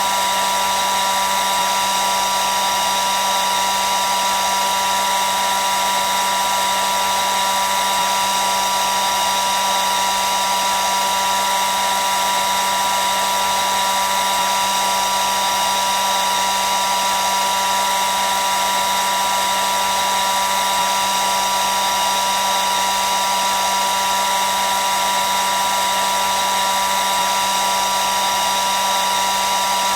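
Hair dryer running continuously at a constant setting: a steady whine over an even rush of air, with a prominent high tone and no change in speed.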